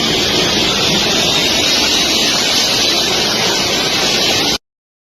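Loud, steady rush of a C-17 transport aircraft's jet engines with wind buffeting the microphone, a high steady whine riding on top. It cuts off suddenly about four and a half seconds in.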